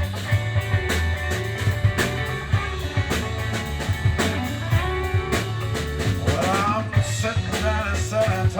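Live rock band playing a Southern-rock song's instrumental opening: guitar over a steady drum kit, with the lead guitar's notes bending upward near the end.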